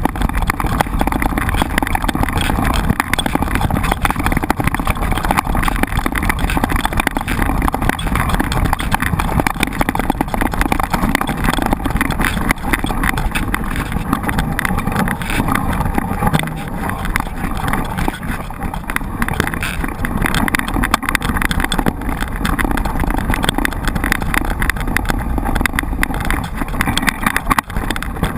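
Mountain bike being ridden, heard from a camera mounted on the rider or bike: steady wind rushing over the microphone, mixed with dense irregular rattling and crunching from the tyres and bike on a rough surface.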